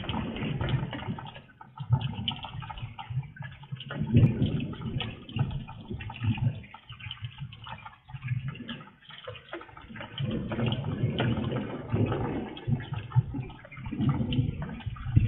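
Rain pouring down and splashing on a porch and wet street, heard through a security camera's microphone, with the loudness rising and falling in waves.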